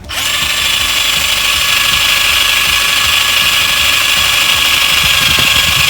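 Power drill boring a hole: the motor starts suddenly and runs steadily and loudly under load, making a hole to be packed with bird feed.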